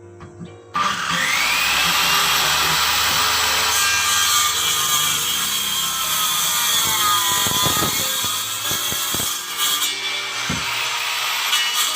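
Electric power tool starting up about a second in and cutting into wood. Its motor whine sags under load, with a few sharp knocks through the noise.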